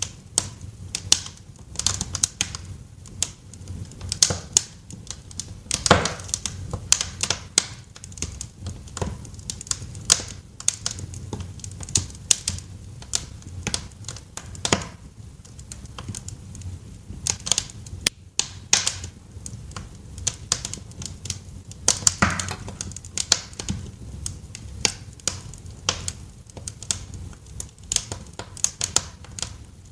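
Wood fire crackling in a fireplace: irregular sharp pops and snaps of varying loudness, a few louder pops standing out, over a low steady rumble.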